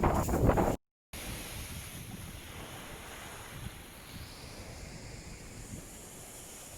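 Wind buffeting the microphone, then a short cut to silence, followed by a softer, steady rush of wind and sea waves.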